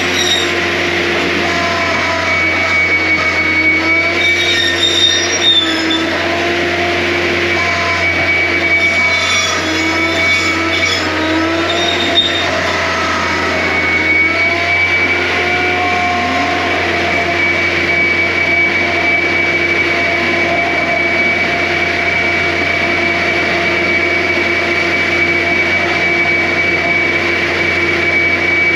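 John Deere 333G compact track loader running at high throttle. It makes a continuous drone with a steady high whine over it, and the pitch wavers and dips slightly now and then as the load changes.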